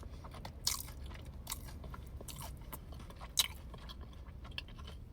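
A person chewing a fried, breaded mozzarella stick, with a few sharp crunches of the crisp coating about a second apart.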